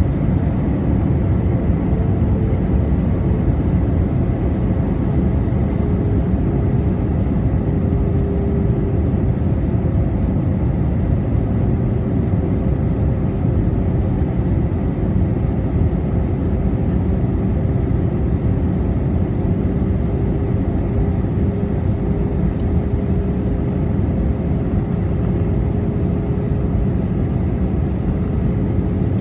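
Jet airliner cabin noise: a steady loud rush of engine and airflow with a faint droning engine tone that drifts slightly lower.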